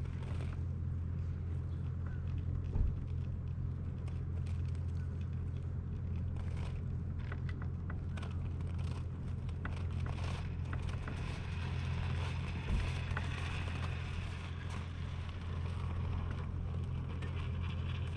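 Monster truck running with a steady low rumble, with scattered crackles and scrapes and two brief thumps, about three seconds in and again about thirteen seconds in.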